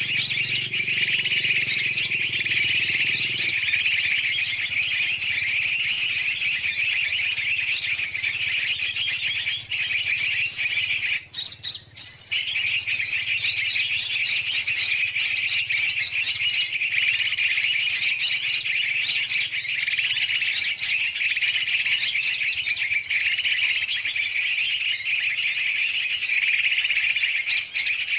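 A dense, unbroken chorus of many birds chirping and twittering, a noisy mix of large and small birds' calls played as a bird-lure recording to attract yellow-vented bulbuls. It drops out for a moment about twelve seconds in.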